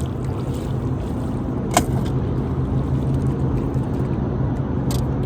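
Boat motor humming steadily, with a sharp click a little under two seconds in and a fainter one near the end.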